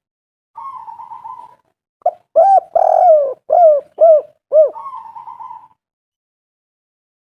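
Spotted dove (tekukur) cooing: a soft rolling trill, then a loud run of about six short arched coos, then another soft rolling trill.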